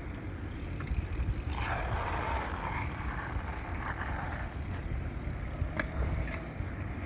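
Wind rumbling on a handheld phone's microphone and tyre noise from a mountain bike being ridden, with a stretch of louder hiss about one and a half seconds in.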